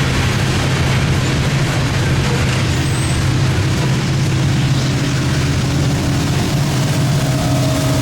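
Freight train passing, a steady loud rumble with a low hum underneath.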